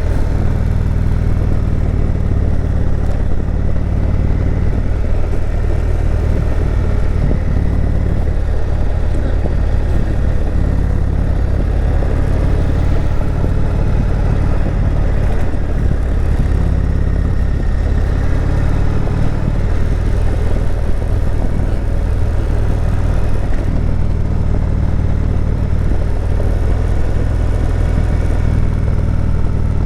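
Indian Chieftain Dark Horse V-twin motorcycle engine running at a steady, even pace while riding.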